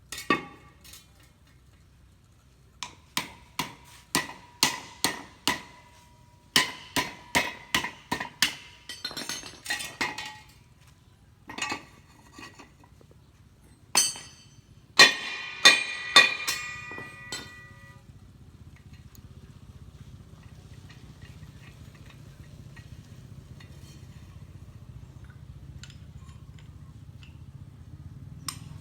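A run of sharp clinks of hard objects striking, about two a second, each with a short ringing tone, in two spells with a pause between. After that a low steady hum slowly grows louder.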